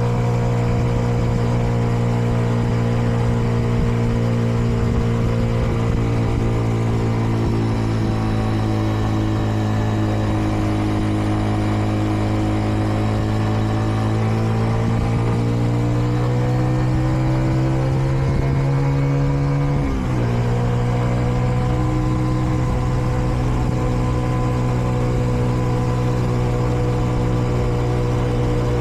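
Kreidler Dice CR 125's single-cylinder four-stroke engine pulling the bike along. Its pitch sags a little, then climbs slowly for several seconds and drops abruptly about two-thirds of the way through at an upshift, then holds steady. The engine is still being run in and is kept to modest revs.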